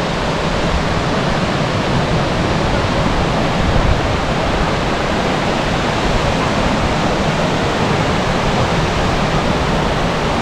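Large waterfall pouring, a steady, even rush of falling water.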